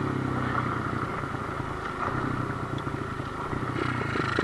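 Kawasaki KLX110 pit bike's small single-cylinder four-stroke engine running steadily at low revs.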